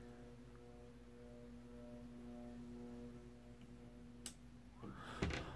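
FASCO World's Fair ceiling fan motor running with a steady electrical buzz. The buzz comes from the add-on fan speed controller, which is turned down. A single sharp click about four seconds in.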